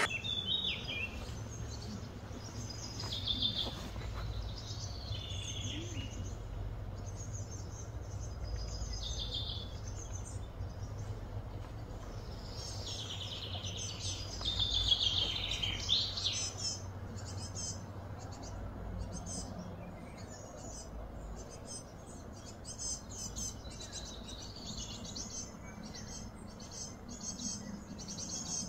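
Birds chirping and calling again and again, with a busier run of gliding calls about halfway through, over a steady low background rumble.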